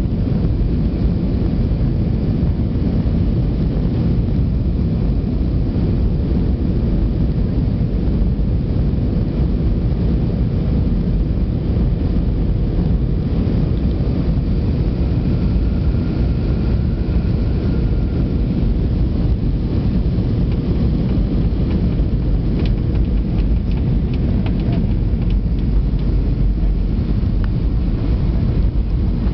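Steady low rumble of an Airbus A320-200 airliner heard from inside the passenger cabin: engine and airflow noise, constant in level, with a few faint ticks near the end.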